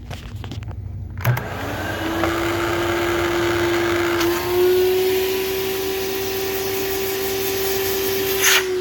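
Hoover Celebrity II Elite canister vacuum switched on with a click about a second in, its motor winding up to a steady high whine that steps up slightly in pitch partway through. A sharp knock comes near the end.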